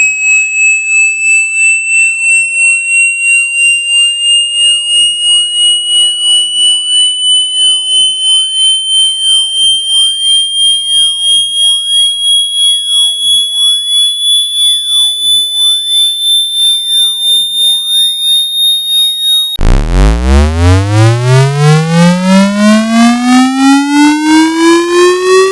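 Electronic speaker-cleaning test tone: a high, pulsing tone gliding slowly upward in pitch. Near the end it switches abruptly to a louder, buzzy low tone that sweeps upward from a deep rumble.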